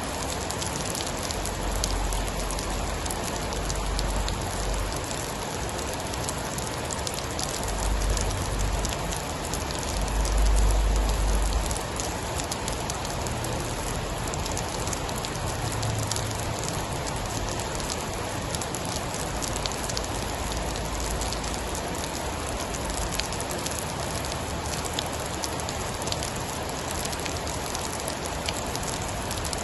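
Steady heavy rain with a fine patter of drops. Deep low rumbles of distant thunder swell now and then, the loudest about ten seconds in.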